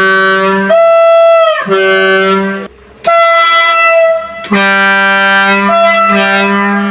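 Railway locomotive two-tone air horn sounding repeatedly, alternating between a low and a high tone in long blasts, with both tones together near the end.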